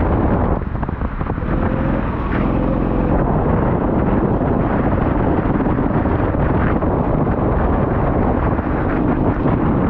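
Four-wheel-drive vehicle's engine running steadily, its pitch rising slightly about two seconds in, with heavy wind noise buffeting the microphone.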